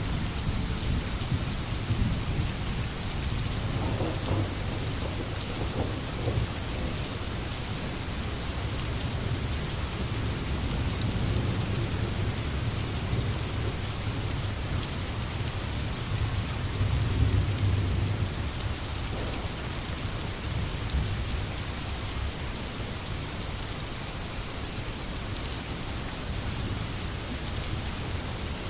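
Steady heavy rain hissing, with low rolling thunder rumbling underneath; the rumble swells in the middle and is loudest about two-thirds of the way through.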